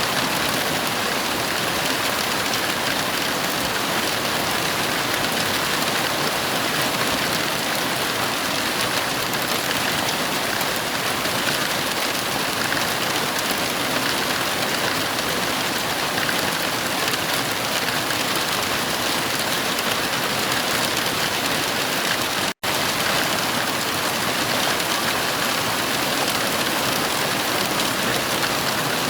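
Heavy rain falling steadily, an even dense hiss with no thunder. The sound cuts out completely for an instant about three quarters of the way through, then resumes unchanged.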